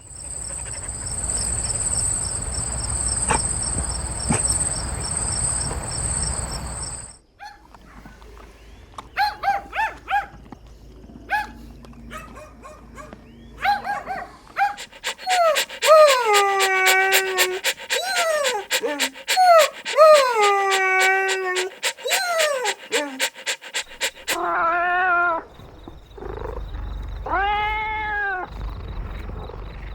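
Puppies whimpering and yelping in short pitched cries, many falling in pitch, with a few longer arching whines near the end. The first few seconds hold outdoor ambience with a steady high pulsing trill before the cries begin.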